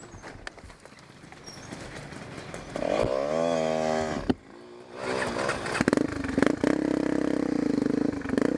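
Dirt bike engine revving up and holding for about a second and a half, then cutting off with a click; a couple of seconds later a dirt bike engine runs steadily.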